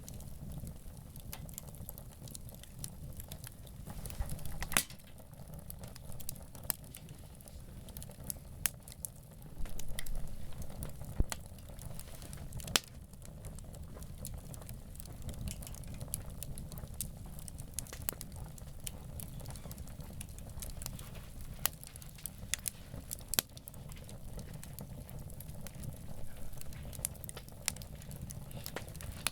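Wood campfire crackling, with irregular sharp pops and snaps over a low steady rumble of the burning fire; a few pops stand out louder.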